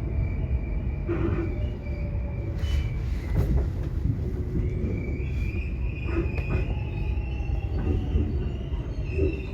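Subway train running: a steady low rumble of wheels on the track, with a thin high-pitched wheel squeal and a few scattered knocks and rattles.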